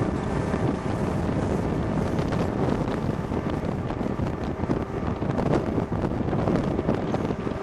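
Passenger train running along the track, heard from an open carriage window: a steady rumble of wheels on rails with scattered clicks, and heavy wind buffeting the microphone.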